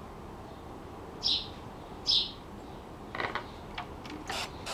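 A bird chirping twice, short high chirps about a second apart, then a few light clicks and ticks of handling near the end.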